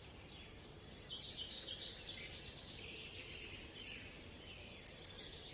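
Birds chirping over a faint background hiss, with a short, high, falling call about two and a half seconds in. Two sharp clicks come near the end.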